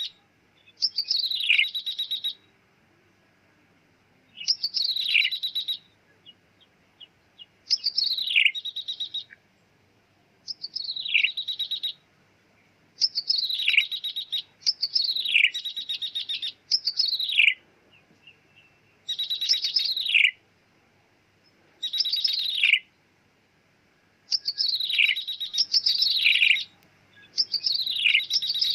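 Ciblek tebu (a prinia) calling in a lure recording. About a dozen short phrases are repeated every second or two, each a quick downward-slurred note followed by a fast buzzy trill.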